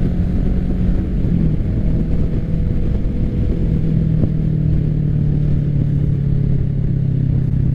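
Kawasaki Ninja 650 parallel-twin running through an M4 full aftermarket exhaust at a steady cruise. The engine note holds fairly even and eases slightly lower in pitch partway through.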